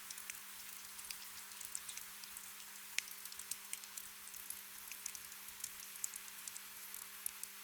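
Gentle rain: a soft, steady hiss dotted with the irregular ticks of individual drops landing close by. A faint steady low hum lies underneath.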